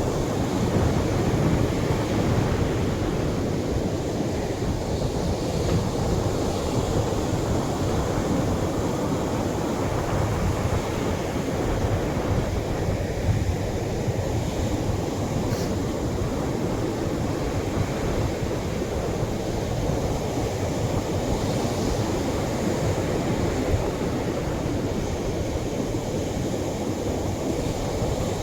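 Atlantic surf washing onto a beach: a steady, low rumbling wash of waves with no distinct single crash standing out.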